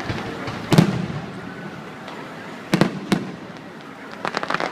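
Aerial fireworks bursting: one loud bang about a second in, two more close together near the three-second mark, then a quick run of crackling pops near the end.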